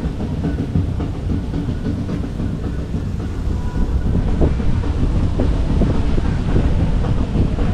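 Strong gusting wind buffeting the microphone: a loud, continuous low rumble with scattered crackles.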